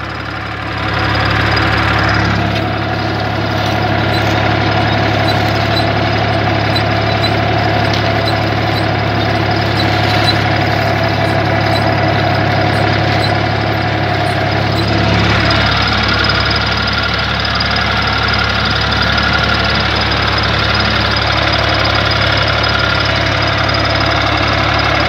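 Three-cylinder diesel engine of a Universal 453 tractor running steadily under load while pulling a disc harrow in fourth gear, high range. Its tone shifts about two-thirds of the way through.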